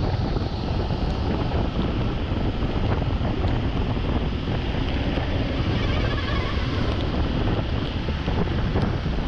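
Steady wind rushing and buffeting on a GoPro microphone mounted on a Honda CBR250R motorcycle riding at speed in the rain, with wet-road hiss from the tyres underneath.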